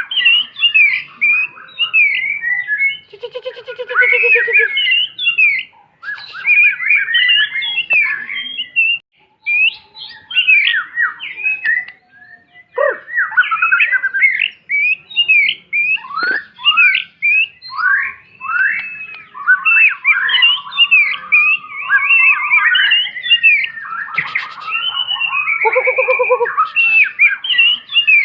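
White-rumped shama (murai batu) singing a long, rapid, varied song of whistled and chattering phrases, broken by harsh rasping calls about four seconds in and near the end.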